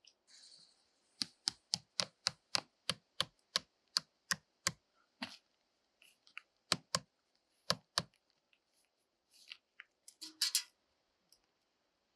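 Rhythmic chopping: a run of sharp strikes, about three a second for some four seconds, then two pairs of strikes and a brief rustle near the end.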